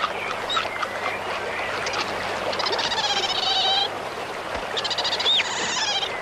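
Common ravens calling: harsh, rasping calls in two long bouts, with short rising whistled notes between them, over a steady background hiss.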